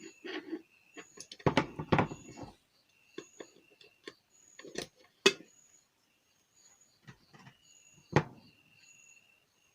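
Pliers and small metal kettle parts clicking and clattering as a loose clip is tightened and refitted: a cluster of knocks about a second and a half in, a sharp click near the middle and one more knock near the end. High, repeated chirping goes on underneath.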